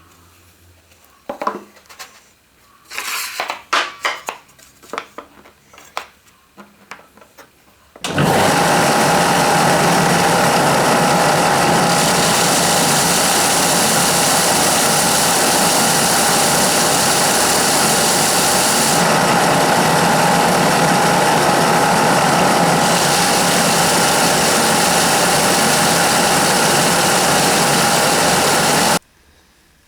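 Several clicks and knocks of handling wood and tools, then a workshop power tool's electric motor runs loud and steady for about twenty seconds with a constant whine, starting and stopping suddenly.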